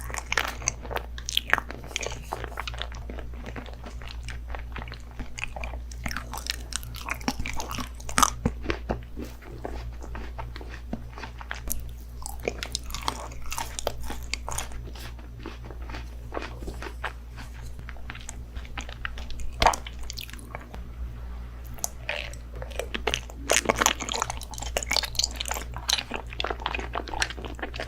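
Close-miked biting and chewing of crunchy food: dense, irregular crunches and crackles, with heavier bites now and then.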